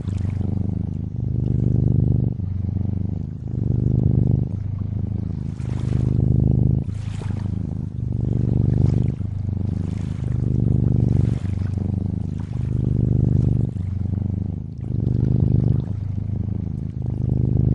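Cat purring continuously, swelling and easing in a slow in-and-out rhythm about once a second, with gentle water trickling and lapping behind it.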